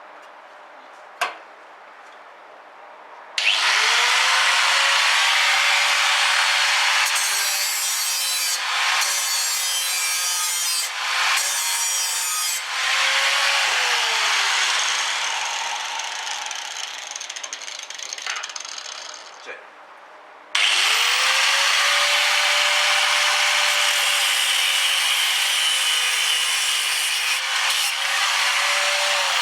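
Electric grinder working on sheet steel. Its motor whines up to speed about three seconds in and grinds steadily, then winds down and stops around two-thirds of the way through. It spins up again and grinds on to the end.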